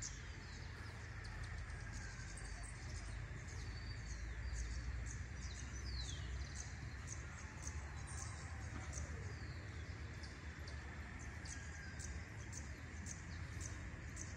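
Birds chirping: short high notes repeating over and over, with a few downward-sliding calls, over a steady low rumble.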